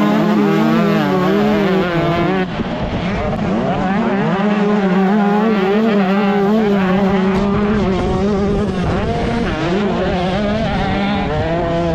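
125cc motocross bike engine running hard at high revs, its pitch wavering up and down with the throttle. It drops off briefly about two and a half seconds in, then pulls back up.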